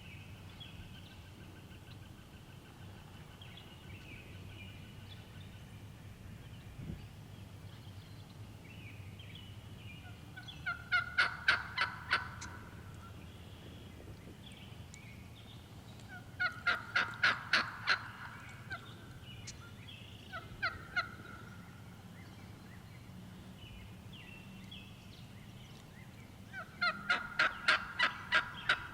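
Turkey yelping: three runs of about seven evenly spaced, loud yelps, with a short pair of yelps between the second and third runs. Faint songbird chirping underneath.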